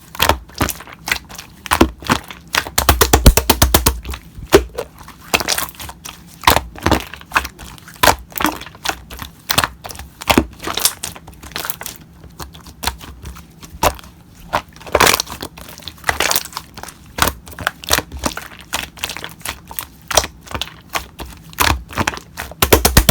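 Slime being squeezed and poked by hand: irregular sharp clicking and crackling pops, with a quick run of rapid clicks about three seconds in.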